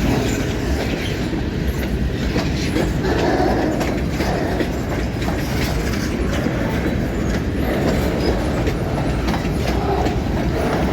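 Freight cars rolling past at close range: steady rumble of wheels on the rails with a running clickety-clack of rail joints and some wheel squeal, as the cars rock over a dip in uneven track.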